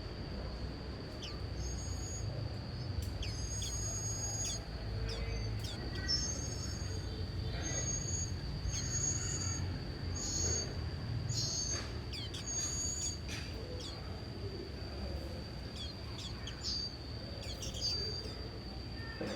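Small birds giving short, high chirps, one roughly every second, over a steady high-pitched whine and a low rumble.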